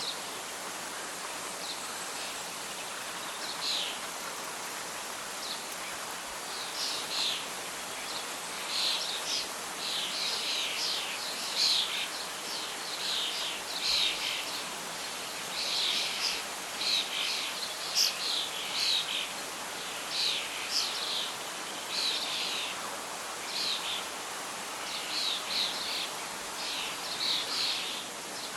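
Birdsong: short, high chirping calls repeating every second or so over a steady hiss of outdoor background noise.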